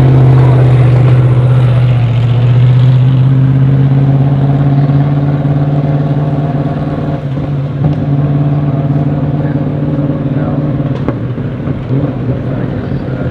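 Brabham BT62's 5.4-litre V8 running at a steady low engine speed, a deep even drone that holds its pitch and slowly grows quieter.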